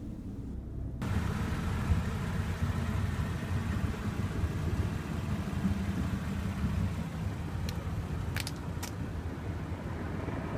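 Steady low rumble that starts abruptly about a second in, with three short, sharp clicks about eight seconds in.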